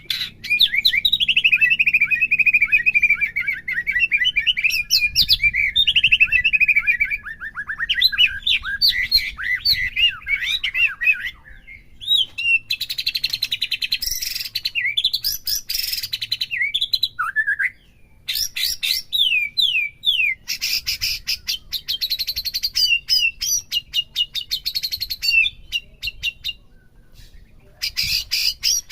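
White-rumped shama (murai batu) singing a long, varied song of sweeping whistles, rapid trills and chattering phrases. It pauses briefly a little over halfway through and again near the end.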